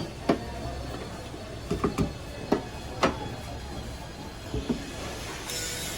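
Tools working on car parts: about eight sharp, separate knocks and clicks at irregular intervals, some in quick pairs. A steady hiss sets in near the end.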